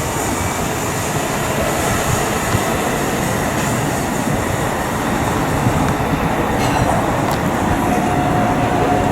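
An electric commuter train running along the rails, a dense steady rumble of wheels and running gear. A faint steady whine joins near the end.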